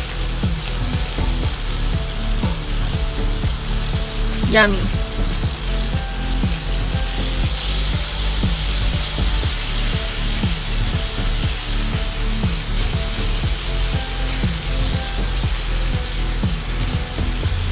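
Bacon sizzling and frying in a pan, with a steady low beat under it.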